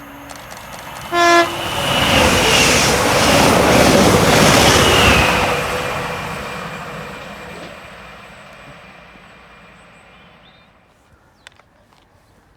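A train sounds a short horn toot about a second in, then passes at speed. Its rushing rail noise builds quickly, peaks a few seconds later and fades away over the next several seconds.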